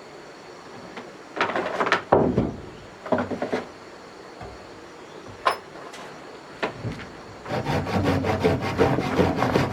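Wooden timber being handled, with a few knocks and scrapes, then sawing through wood starting about three-quarters of the way in as a fast, even run of saw strokes.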